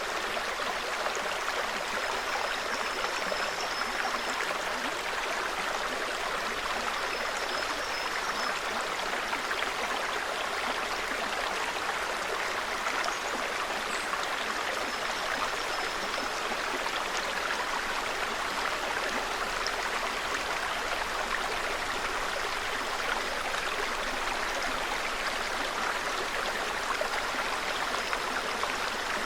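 Small mountain stream running steadily over stones. Faint high, thin bird calls come through a few times.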